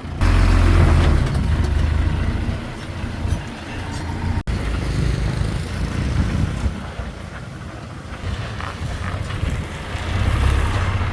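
Diesel engine of heavy earthmoving machinery working under load, its deep rumble rising and easing. It is loud at first, eases off in the middle with a brief dropout, and builds again near the end.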